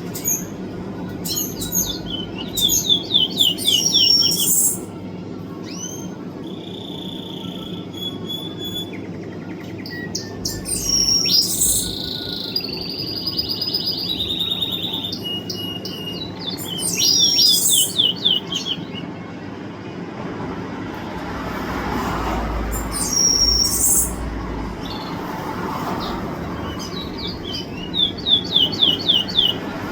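A songbird singing short, repeated phrases, each a fast run of high sharp notes and whistles, about five times, every five or six seconds, over a steady low background hum.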